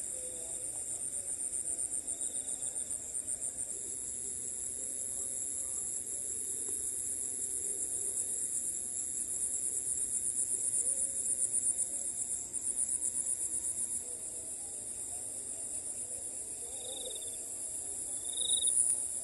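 Night insects trilling in a high, steady chorus with a fine rapid pulse, with a few short, lower chirps near the end.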